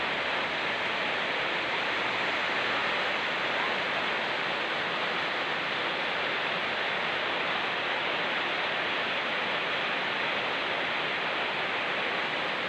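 Rain falling with a fast-flowing mountain river rushing alongside, a steady, even noise with no breaks.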